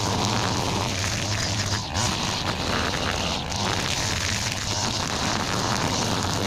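Small gas engine of a handheld lawn tool running steadily at high speed, with a coarse whir that dips briefly twice.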